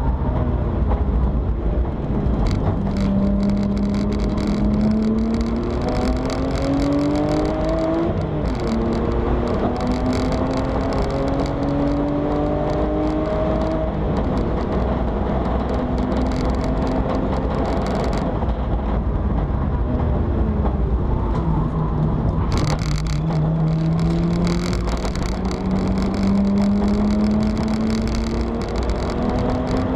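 BMW 325i E90 race car's straight-six engine heard from inside the caged cabin while lapping a circuit: the engine note climbs slowly under power, drops back sharply about eight seconds in and again about two thirds of the way through, then climbs again. Wind and road noise run underneath.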